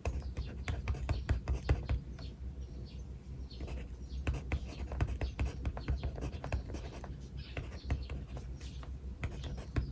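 A pen writing on paper, a busy run of quick scratching and tapping strokes, with birds chirping at intervals among them.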